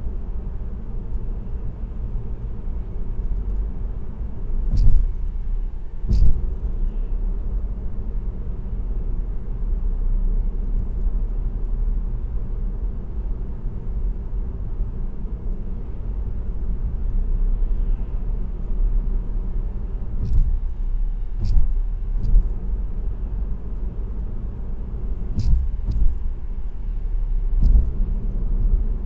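Car cruising on an expressway, its steady low road and tyre rumble picked up by a dashcam inside the car. Now and then short, sharp knocks cut through, twice early on and in a cluster over the last third.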